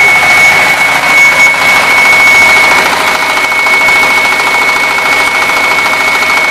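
The 14 hp engine of a walk-behind concrete cutting machine running steadily and loudly, with a constant high-pitched whine.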